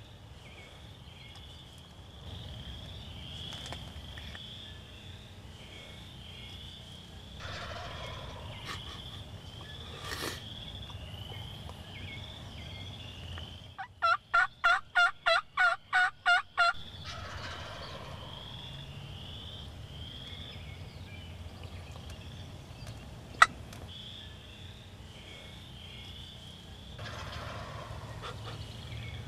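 A loud run of about ten turkey yelps, evenly spaced over about three seconds, a little before the middle. A faint steady high-pitched chirping goes on throughout, and there is a single sharp click about 23 seconds in.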